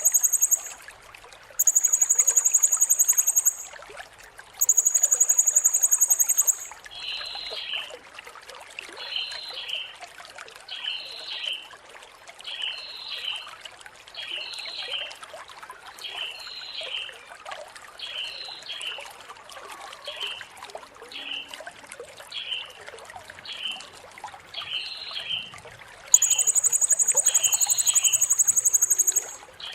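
Blue-crowned hanging parrot (serindit) calling: three long, steady, very high trilled notes of about two seconds each at the start, and another near the end. Between them comes a shorter, lower call repeated about once a second.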